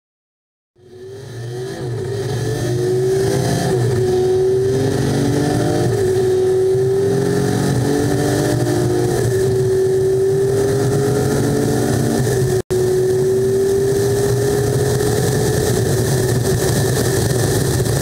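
Detroit Diesel Series 60 14-litre diesel engine of a Freightliner Coronado race truck, running loud under acceleration. It starts just under a second in, and its pitch climbs and drops back a few times. The sound cuts out for an instant about two-thirds of the way through.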